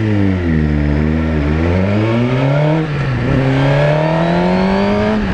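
Suzuki GSX-R1000's inline-four with a Yoshimura exhaust can, accelerating under load. The engine note climbs, drops sharply about three seconds in at an upshift, then climbs again.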